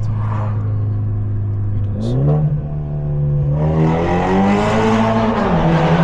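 Straight-piped, catless exhaust of a BMW 530's turbocharged four-cylinder: a steady drone, then the revs climb as the car accelerates, stepping up about two seconds in and rising again through the middle, before falling back to a steady drone near the end.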